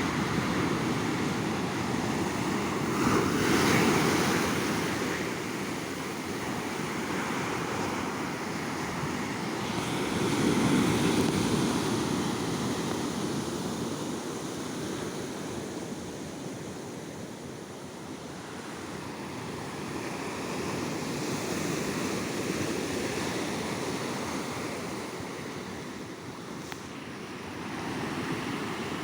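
Sea waves breaking on a sandy beach and washing up. The surf swells louder about four seconds in and again around eleven seconds, with softer surges later.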